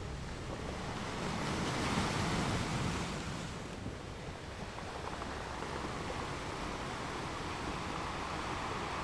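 Ocean waves washing onto a shore, a steady surf wash that swells and eases over several seconds, with some wind noise on the microphone.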